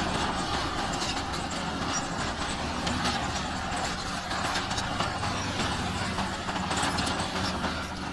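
Heavy diesel engine of an earthmoving machine running steadily.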